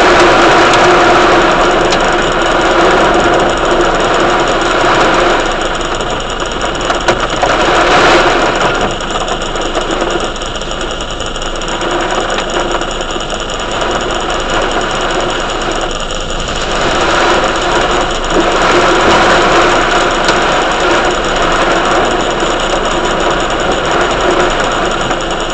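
Heavy thunderstorm rain drumming hard and fast, swelling and easing every few seconds, with a steady hum underneath.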